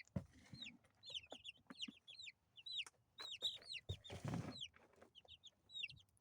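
Two-week-old chicks peeping, a rapid run of short high-pitched calls that each slide downward in pitch. About four seconds in there is a brief rustling noise.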